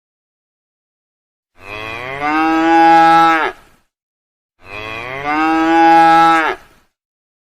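A cow mooing twice, two long moos of about two seconds each that swell louder partway through and are almost identical, with a pause of about a second between them.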